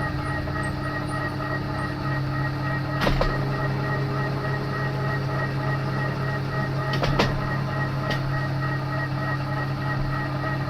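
TOS milling machine spindle and gearbox running with a steady hum and whine while a 6.5 mm drill bit drills into a snapped stainless exhaust stud. The deeper hum grows louder about two seconds in, and a few sharp clicks come about three seconds in and twice near seven seconds.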